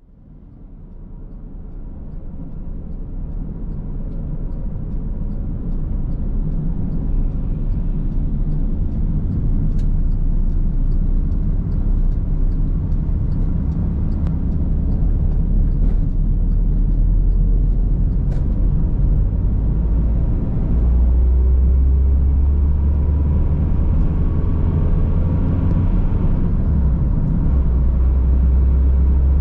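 A car driving along a road: a steady low rumble of tyres and engine. It fades in over the first few seconds, and the deep rumble grows stronger about two-thirds of the way through, with a few faint clicks.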